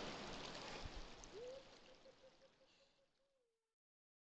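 Flowing stream water fading out over the first second and a half, then near silence.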